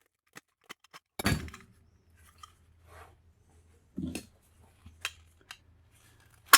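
Metal parts clinking and knocking while a brass piece is worked free of a steel part with hand tools. A loud clank comes about a second in, with further knocks and a sharp click near the end.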